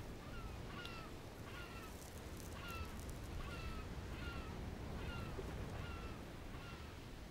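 A bird calling over and over: short, falling chirps at about two a second, over a low background rumble.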